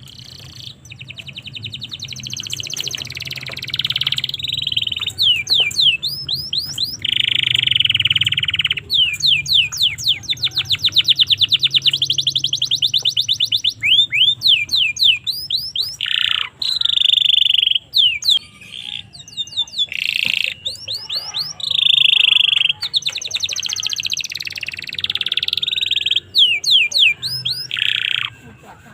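Domestic canary singing a long, continuous song of fast trills and rolls mixed with runs of quick sweeping notes.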